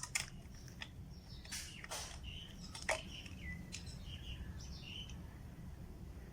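Birds chirping, with a few sharp clicks, the loudest about three seconds in, over a steady low background rumble.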